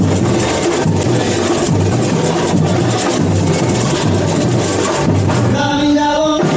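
Samba bateria playing at full volume: bass drums beating a steady low pulse under a dense wash of shakers and snare drums. Near the end a voice comes in, singing briefly.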